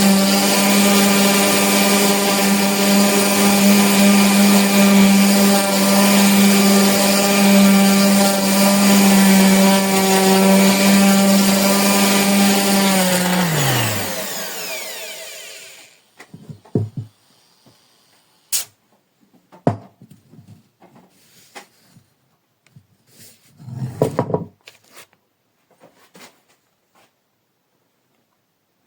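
Vistreck 150 mm 450 W corded random orbital sander running at a steady speed with a constant motor whine, then switched off about 13 seconds in, its pitch falling as it spins down to a stop. Afterwards come a few light clicks and knocks, with a louder knock about ten seconds later.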